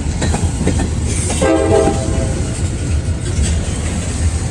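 Freight train rolling past with a steady low rumble, with a brief horn sounding for about a second around a second and a half in.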